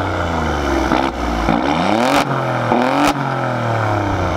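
Alfa Romeo Stelvio Quadrifoglio's twin-turbo V6 revved through its quad-tip exhaust several times, the pitch climbing and falling with each blip. Two sharp cracks come as revs are let off, about two and three seconds in.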